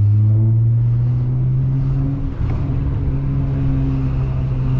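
2005 Acura TL's V6 engine pulling at steady revs while the car is driven, heard from inside the cabin as a steady drone, with a brief dip in level about two seconds in.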